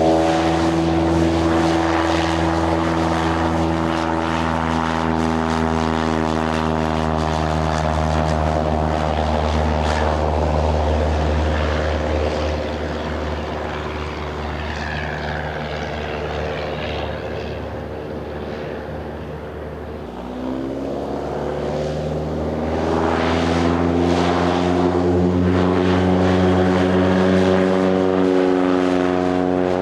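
Cessna 172 Skyhawk's four-cylinder piston engine and propeller droning at full takeoff power, slowly fading and dipping slightly in pitch as it climbs away. About two-thirds of the way through, a Mooney M20J's four-cylinder engine starts up a new drone, rising in pitch as it powers up for its takeoff and growing louder near the end.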